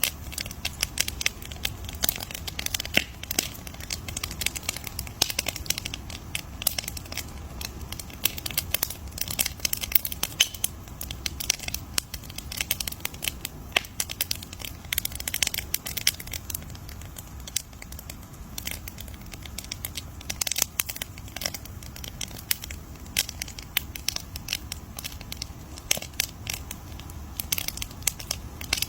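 Wood fire crackling: a steady stream of irregular pops and snaps over a low rumble.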